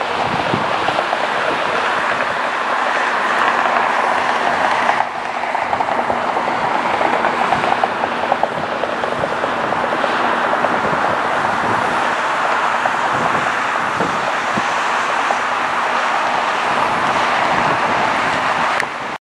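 Steady loud roar of jet airliner engines, with an abrupt change in the sound about five seconds in and a brief dropout just before the end.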